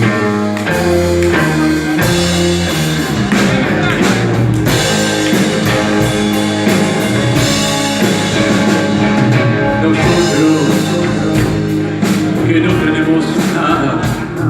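Rock band playing live, an instrumental passage of electric guitar, bass and drum kit with steady drum hits.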